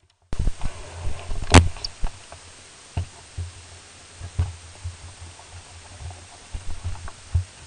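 Handling noise on the camera microphone: irregular low thumps and knocks, with one sharp click about a second and a half in, over a steady hiss.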